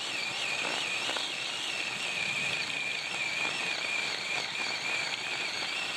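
Ryobi 18-volt 10-inch battery chainsaw running under load as it cuts through a stump: a steady high electric-motor whine with a slight waver and chain noise. It stops right at the end.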